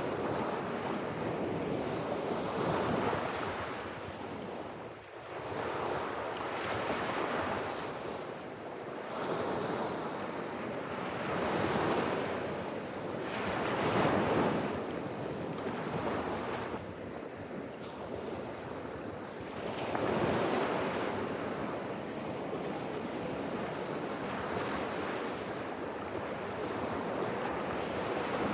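Pacific Ocean surf: waves breaking and washing up the shore, swelling every few seconds, with wind buffeting the microphone.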